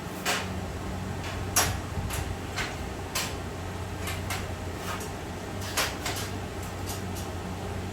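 Irregular sharp metal taps and clanks, about fifteen over several seconds, from work on a steel smoker, over a steady low hum.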